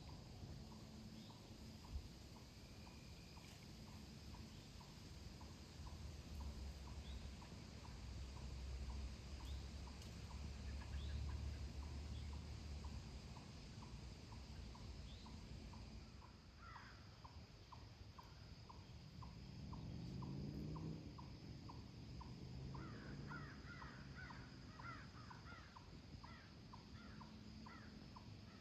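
Quiet woodland ambience: a steady faint ticking about twice a second, scattered bird chirps, and a bird cawing in a rapid run of calls near the end.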